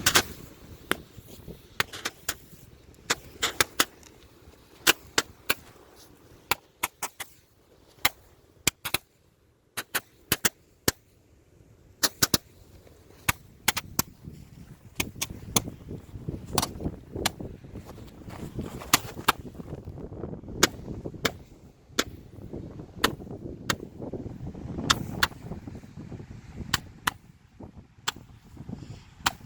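Many sharp pops and cracks at irregular intervals, some in quick clusters, over a low rumbling background.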